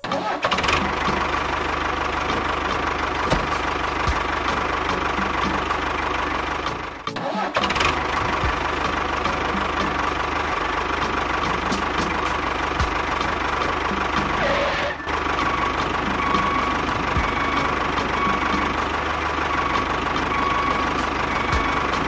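An engine running steadily, with brief dips in the sound about seven seconds and again about fifteen seconds in.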